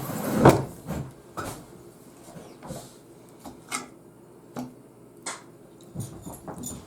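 Fork and plate clicking and knocking at a meal, a louder clatter at the start, then scattered light clicks.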